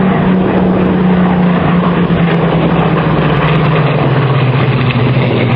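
Piston-engined aircraft making a low flypast, a loud engine drone whose pitch falls slowly and steadily as it passes.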